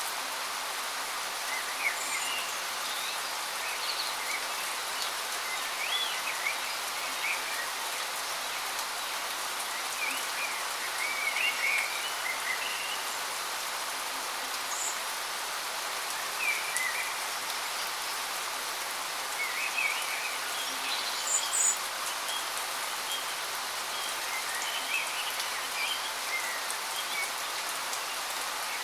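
Steady rushing hiss of a waterfall, with small birds chirping briefly and irregularly over it, several short calls every few seconds.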